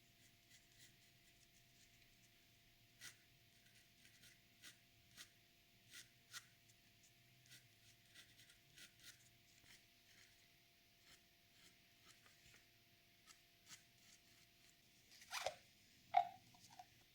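Faint, scattered scratching strokes on paper over a low steady hum. Near the end comes a louder rustle, then a sharp knock with a short ring.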